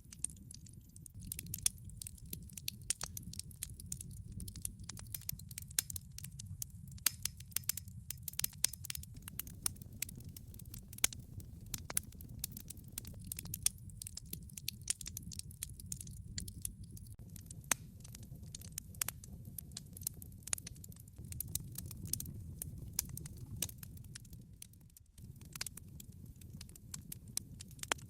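Wood fire burning in a fireplace: logs crackling with many irregular sharp pops and snaps over a low steady rumble of the flames, which dips briefly near the end.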